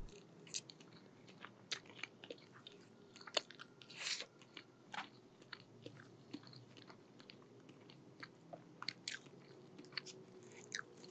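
Close-miked chewing of a mouthful of syrup-soaked pancake: soft, wet mouth clicks and smacks scattered throughout, quiet overall.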